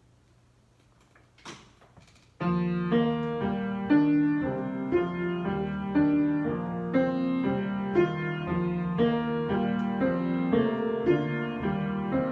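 Near silence with a brief rustle, then a piano or keyboard improvisation starting suddenly about two seconds in, with sustained chords.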